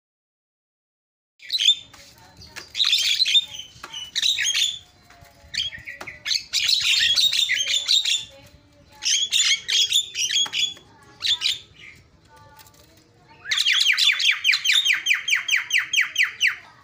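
Javan myna singing: after a second and a half of silence, loud bursts of varied chirps, whistles and harsh squawks. Near the end comes a fast run of rapidly repeated notes lasting about three seconds.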